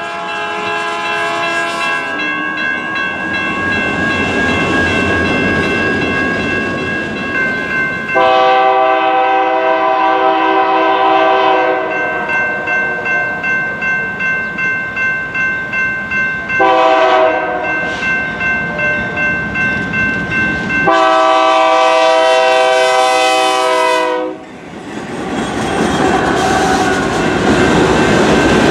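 A passing train with its locomotive horn sounding a chord of several tones in four blasts, the third one short. Between blasts, the train's wheels click rhythmically over rail joints, about two clicks a second.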